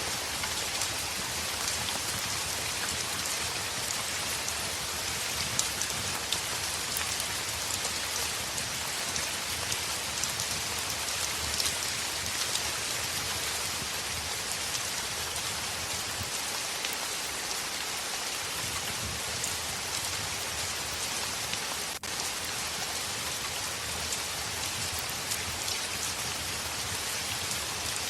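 Heavy rain on a window: a steady, dense hiss of rain flecked with many small drop ticks. There is a brief dip in level about two-thirds of the way through.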